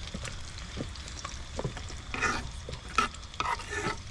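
Light knocks and scraping of utensils during food preparation, with a couple of short scraping stretches about two and three seconds in.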